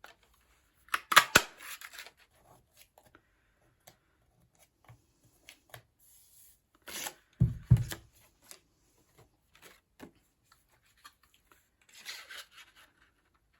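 Craft paper punch cutting through cardstock: a sharp crunching snap about a second in, and a second punch about halfway with a heavier clunk, with card sliding and rustling between and a softer rustle near the end.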